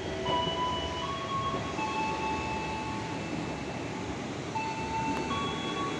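KRL Commuter Line electric train moving through the station: a steady rumble of wheels on rail, with a whine from its traction-motor inverters that holds one pitch for about a second at a time and then jumps to another, several times over.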